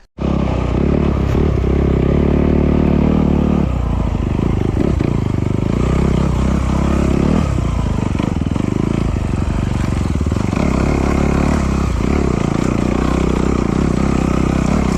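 Off-road motorcycle engine running at varying throttle, its note rising and falling again and again, cutting in just after a brief dropout at the start.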